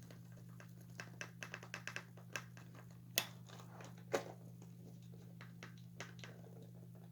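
Scattered small clicks and taps of hands prying plastic parts off a Rockin Randall animatronic toy, a few sharper snaps among them, over a steady low hum.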